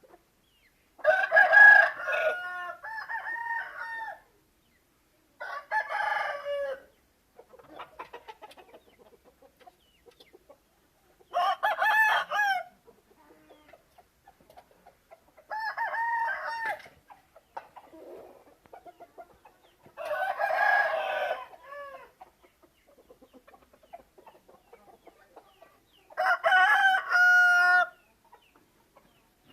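Aseel chickens crowing and clucking. Six loud calls of a second or two each come about every four to six seconds, with softer clucking between them.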